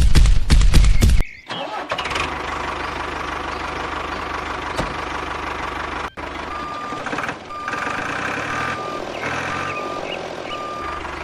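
Loud rhythmic thumping for about the first second, cut off suddenly. Then a vehicle engine running steadily, with a reversing beeper sounding repeated short beeps from about halfway through.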